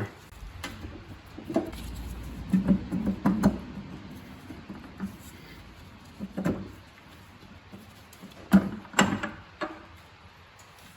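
Metal clinks and knocks, some ringing briefly, as the rear cover of a Suzuki Jimny R72 manual gearbox is taken off the casing and handled, with the two loudest knocks a little past the middle.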